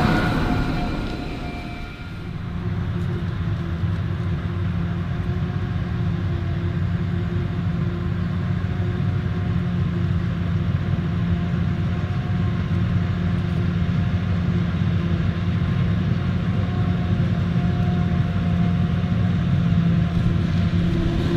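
Heavy diesel farm machinery at a maize harvest running steadily. A louder pass fades away over the first two seconds, then settles into an even, unchanging engine drone.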